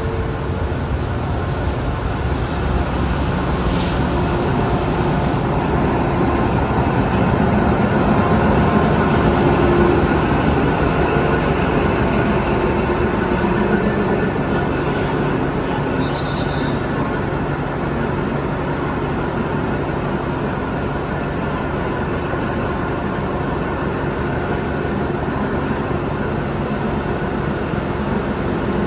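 Diesel train running at a station: a steady, even rumble of engine and rolling stock.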